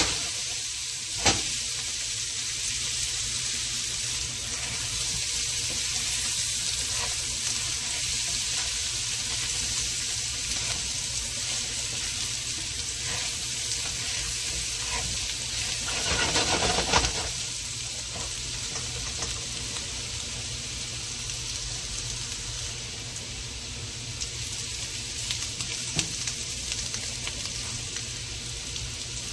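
Red skin potatoes sizzling steadily in garlic butter in a skillet, stirred now and then with a utensil; a sharp click just over a second in and a louder stretch of stirring about 16 seconds in.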